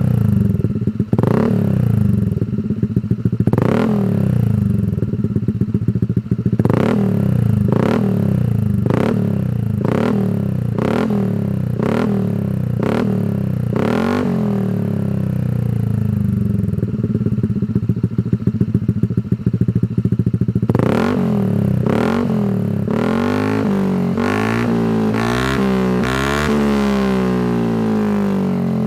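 Honda ADV 160 scooter's single-cylinder engine idling through a Shijiro Racing Type MT GP Power aftermarket exhaust, with repeated quick throttle blips, about one a second for several seconds in the middle, and a longer run of revving near the end.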